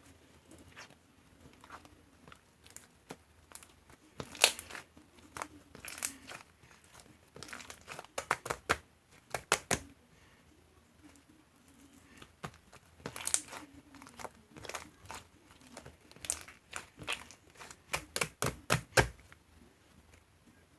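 Irregular crinkling and crackling, with sharp clicks coming in clusters and quieter gaps between them.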